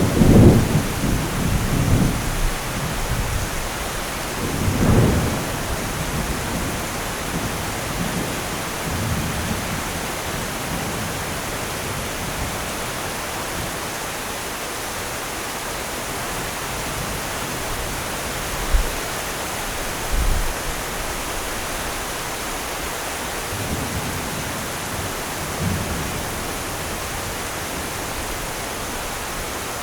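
Steady rain with rolling thunder. The loudest rumble comes at the start and another about five seconds in, with weaker distant rumbles later.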